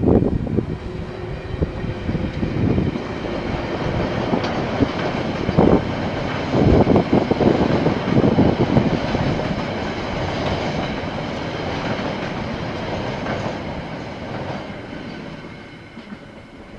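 KiwiRail train rolling past, its wagon wheels clacking over the rail joints, fading away over the last few seconds.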